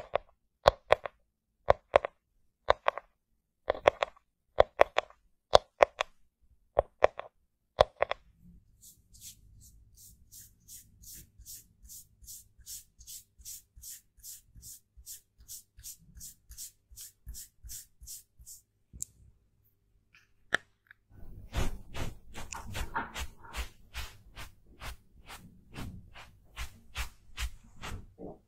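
Close-miked makeup ASMR sounds: a run of sharp taps, one or two a second, for the first few seconds. Then soft, quick, regular strokes about twice a second, and from about two-thirds of the way in, denser and louder scratchy strokes.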